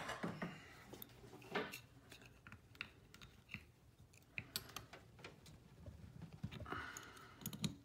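Faint, scattered clicks and light metal taps of hand tools working on a motorcycle brake caliper as its bleeder screw is loosened and removed.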